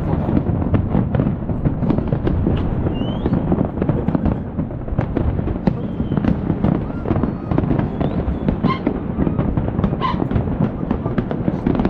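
A fireworks display going off without pause: a dense, rapid run of bangs and crackles over a deep continuous rumble.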